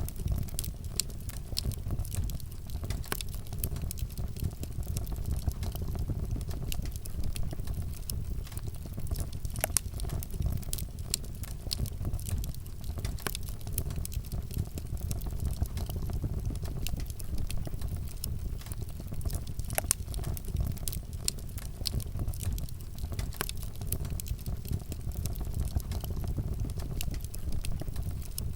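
Wood fire burning with a steady low rumble and frequent sharp crackles and pops scattered throughout.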